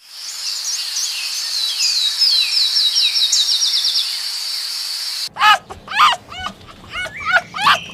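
A bird calling in a high-pitched, fast chirping trill of quick down-slurred notes. At about five seconds it cuts abruptly to a run of short, rapid yelping calls from another animal.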